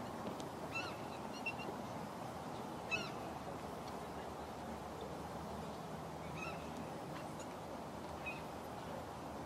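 Birds giving short calls, several scattered a second or more apart, over a steady outdoor background hiss.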